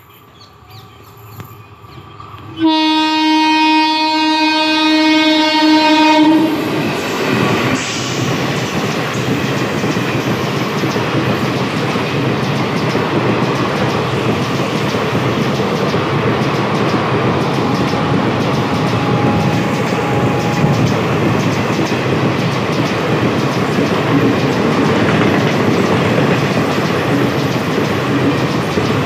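12787 Narasapur–Nagarsol Express sounding one long horn blast of about four seconds as it comes into the station. Its coaches then rush past the platform, with loud steady rumble and clatter of wheels on rail.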